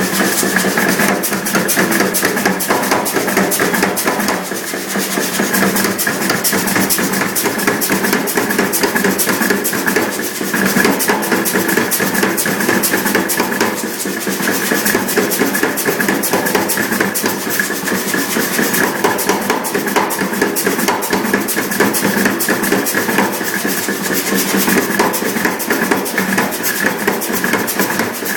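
Mechanical power hammer running, striking in a fast, steady rhythm of blows over the hum of its drive motor.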